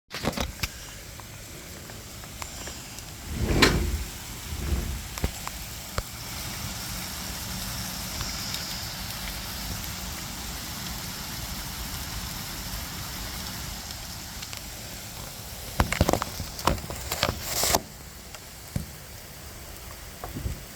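Steady rain during an ice storm, with sharp ticks and crackle of drops hitting nearby surfaces. A heavy thump about four seconds in, and a cluster of loud knocks near the end.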